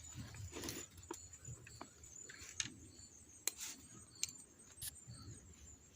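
Faint scattered clicks and light taps, with a few short high chirps over a steady faint high hiss.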